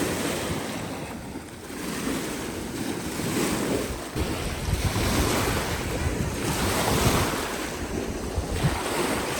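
Wind-driven waves breaking and washing on a lake beach, the surf swelling and falling every few seconds, with strong wind buffeting the microphone as a low rumble.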